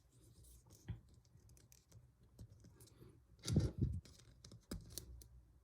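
Small plastic LEGO pieces clicking and tapping as they are handled and fitted together, with a louder cluster of knocks about three and a half seconds in.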